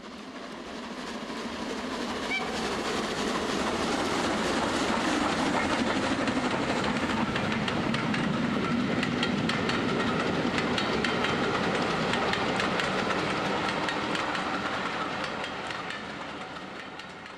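Train running on rail track, the wheels clicking rapidly over the rail joints. The sound swells up over the first few seconds, holds steady, then fades away near the end.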